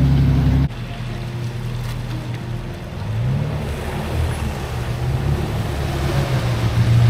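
Four-wheel-drive vehicle's engine running and revving, its pitch rising and falling twice, over a steady rushing noise. The sound drops abruptly in level shortly after the start.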